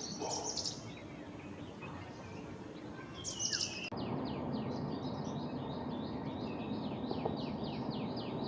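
Wild birds calling: scattered high chirps for the first few seconds, then a rapid run of repeated down-slurred notes, about three a second, with a faint steady outdoor hiss underneath.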